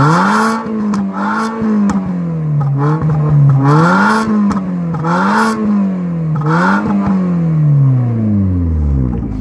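Alfa Romeo GT 2.0 JTS four-cylinder petrol engine being revved in a series of quick blips, about one a second, through a Ragazzon sport exhaust with a straight pipe in place of the mid-silencer. Near the end the revs fall away and it settles to idle.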